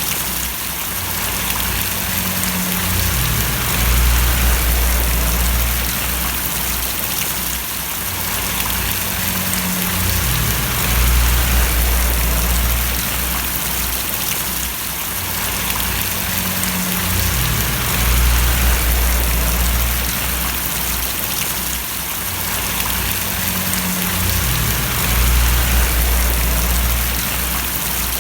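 Steady rain splashing, a continuous even hiss, with a low rumble underneath that swells and fades about every seven seconds.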